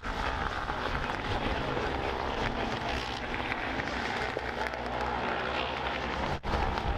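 Racing motorcycle engines running on track, heard as a steady dense mix of engine noise with a brief dropout about six and a half seconds in.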